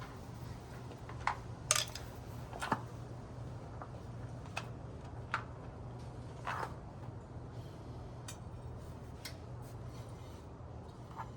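Light metal clinks and taps of washers and bolts being handled and fitted on a motorcycle wheel, about nine irregular clicks over a low steady hum.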